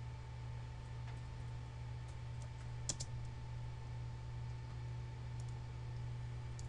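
Faint computer mouse and keyboard clicks, a handful of light taps with one sharper double click about three seconds in, over a steady low hum.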